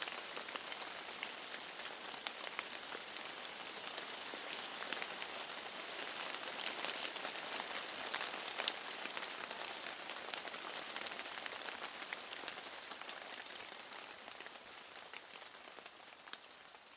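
Rain falling steadily, with many small drop taps in a continuous hiss, as of raindrops striking a window. It grows quieter over the last few seconds.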